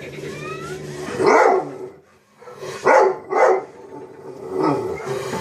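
Dog barking: a single bark, then a quick pair, then a softer bark.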